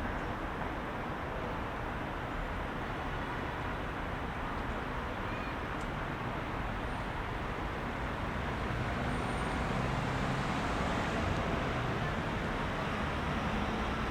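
Heavy rush-hour road traffic: a steady wash of engine rumble and tyre noise from many vehicles, swelling a little past the middle as traffic passes closer.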